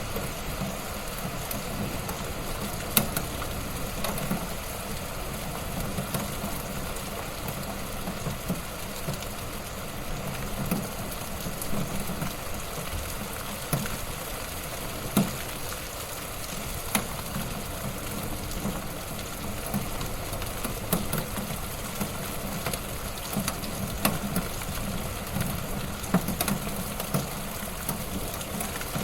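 Wood fire burning in a fireplace: a steady crackle and hiss with scattered sharp pops, the loudest about three seconds in.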